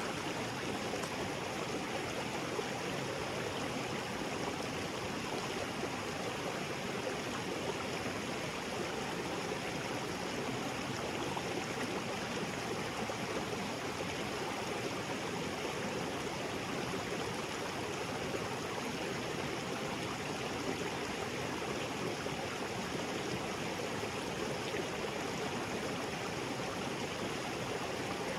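Small waterfall spilling into a rocky jungle creek: a steady, even rush of falling and flowing water with no breaks.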